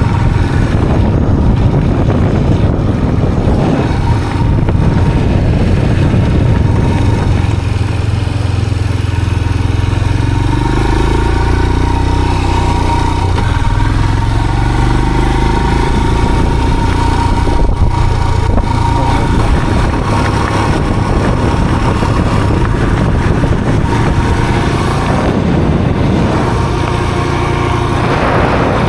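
A motor vehicle's engine running steadily while on the move, with a low rumble, and its pitch rising and falling a few times around the middle.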